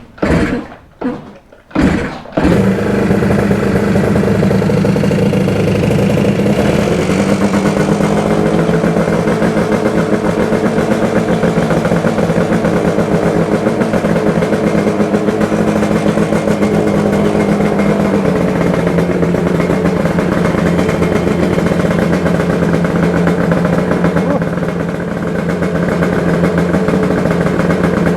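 Rebuilt Yamaha RD400 air-cooled two-stroke twin kick-started for its first run: a few short loud bursts, then it catches about two and a half seconds in and keeps running steadily, dipping briefly near the end.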